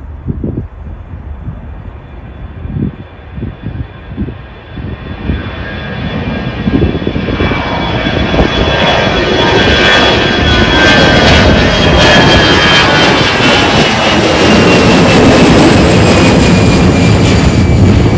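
Jet airliner taking off: the engine noise builds over several seconds to a loud, steady sound at full takeoff thrust as the plane comes past. A high fan whine slowly falls in pitch as it goes by.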